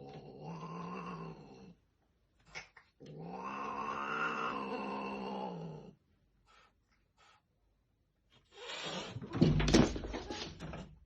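Domestic cats yowling during mating: two long, low, drawn-out yowls, then a loud, harsh outburst near the end.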